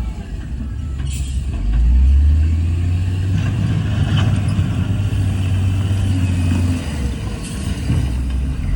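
Heavy diesel engine of earthmoving machinery running with a low rumble that swells about two seconds in and eases off near the end.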